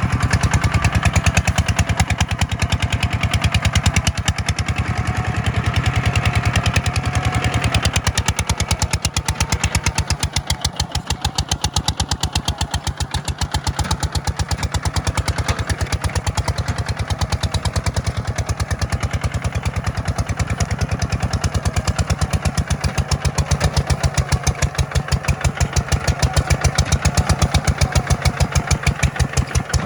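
Tractor diesel engine running steadily, its firing pulses even throughout. The sound drops a little in the middle and grows louder again toward the end.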